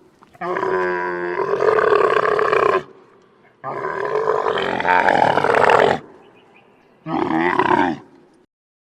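A camel's calls, three in a row: two long ones of about two and a half seconds each and a shorter one near the end.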